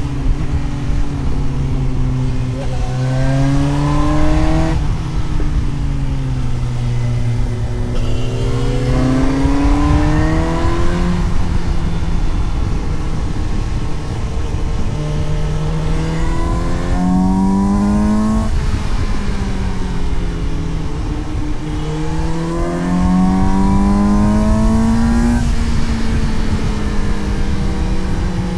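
Suzuki GSX-S750 inline-four engine pulling hard through the gears: its pitch climbs, then drops sharply at each shift about five seconds in, near eleven seconds, after eighteen seconds and near twenty-five seconds, with stretches of falling revs while easing off between bends. A steady wind rush runs underneath.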